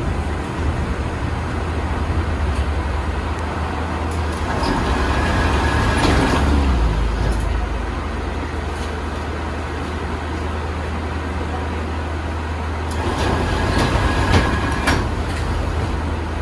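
Interior running noise of a KTM-8KM tram: a steady low electrical hum, with rattling and running noise swelling twice, about five seconds in and again near the end.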